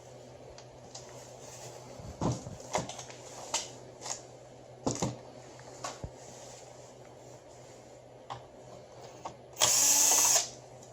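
Scattered clicks and knocks of parts being handled during the copier fuser-unit teardown, then near the end an electric screwdriver runs once for under a second.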